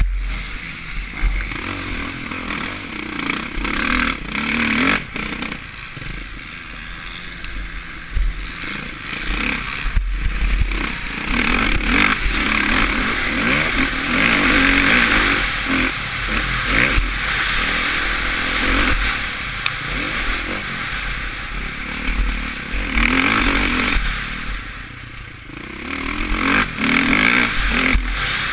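Suzuki RM-Z450 single-cylinder four-stroke motocross bike engine revving up and down under riding, heard from a helmet-mounted camera with wind rush. Several sharp knocks and clatters stand out, and the engine drops off briefly near the end before picking up again.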